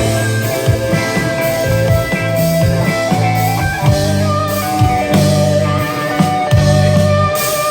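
Live rock band playing an instrumental passage: guitars ringing out held notes over bass and a drum kit, with no singing.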